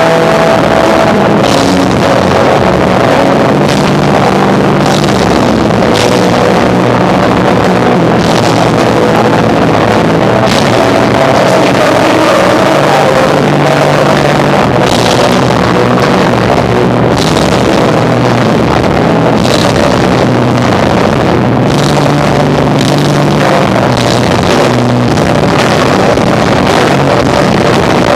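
Live rock band of electric guitar, bass and drums, recorded so loud that the audio is overloaded and distorted into a dense, muddy wash, with drum and cymbal hits cutting through every second or two.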